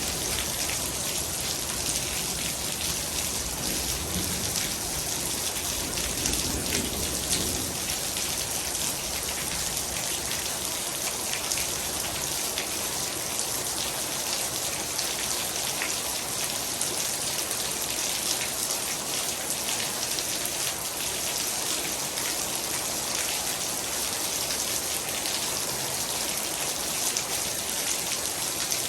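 Heavy rain falling steadily, a dense even hiss of drops on surfaces. A low rumble underneath fades out about seven seconds in.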